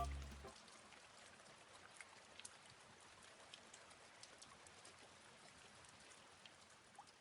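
Near silence after the music dies away in the first half second: a faint hiss with scattered tiny ticks.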